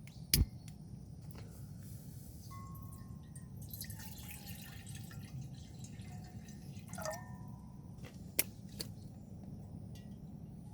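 Water dripping and trickling, with a few sharp clicks: one about half a second in and two close together near the end.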